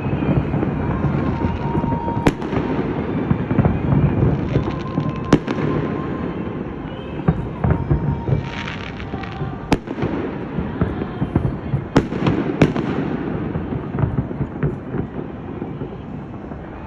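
Fireworks going off: about five sharp bangs a few seconds apart, the last two close together, with crackling showers in between over a steady background rumble.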